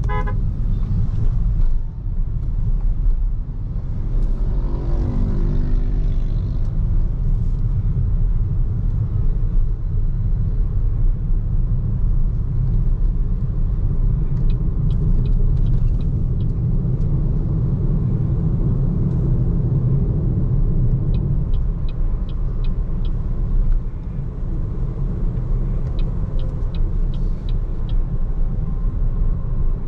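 Steady low road rumble of a BYD Seagull electric car driving: tyre and wind noise, with no engine note.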